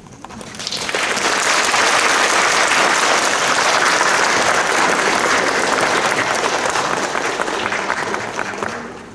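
Audience applauding: clapping swells about a second in, holds steady, then dies away near the end.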